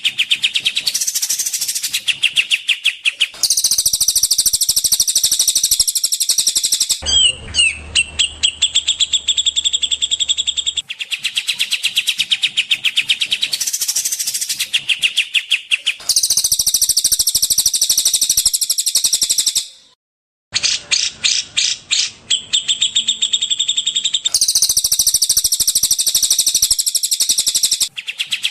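Recorded songbird songs from a cage-bird 'masteran' tutoring track: rapid, dense high-pitched chattering trills in blocks that change abruptly every few seconds as different song clips are spliced together, with a brief silent gap about two-thirds of the way through.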